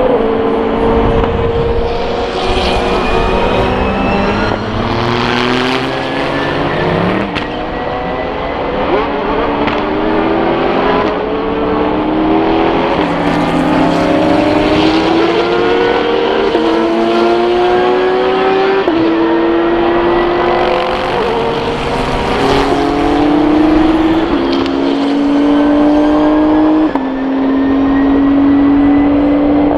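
SUPER GT racing cars accelerating hard one after another, each engine note climbing and then dropping sharply at every upshift. Several cars pass close, each swelling in loudness as it goes by.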